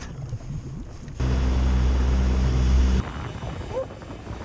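Boat motor running steadily at speed, with a low even drone, coming in suddenly and cutting off about two seconds later; rough wind or water noise around it.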